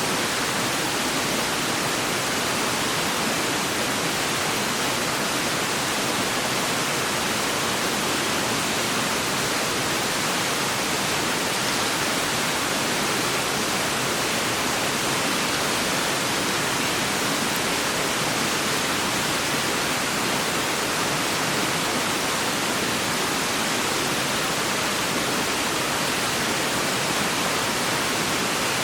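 A clear mountain stream rushing steadily, an even hiss of running water with no breaks.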